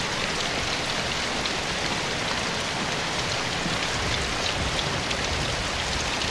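Soft, steady rain falling in a forest, with single nearer drops heard as faint ticks over the even hiss.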